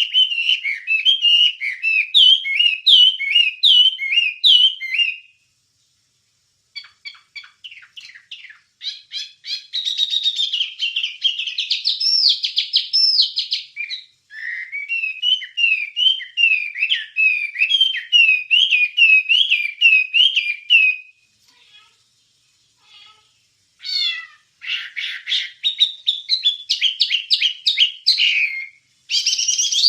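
A Wambie songbird singing a long chattering song of rapid chirps and whistled notes, repeated in quick phrases. The song breaks off briefly about five seconds in and again about two-thirds of the way through.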